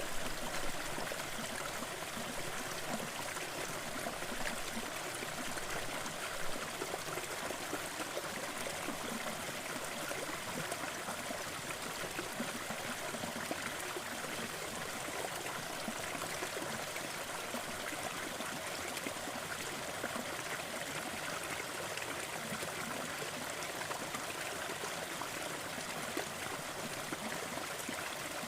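Crackling fireplace fire over a steady rushing hiss of background noise, with a few slightly louder pops in the first several seconds.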